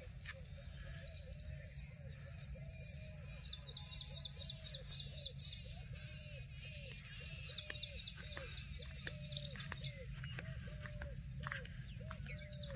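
Birds calling: quick high chirps repeated several times a second over a lower, arched call repeated about twice a second, with a faint steady low rumble underneath.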